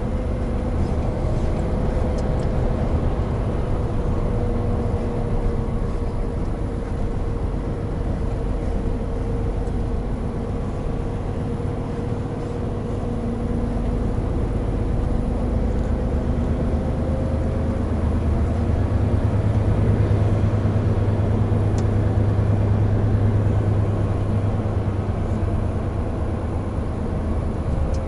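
Hino Profia heavy truck running on the road: a steady low diesel drone with road noise. A thin whine slowly falls in pitch over the first two-thirds, and the low drone grows louder in the last third.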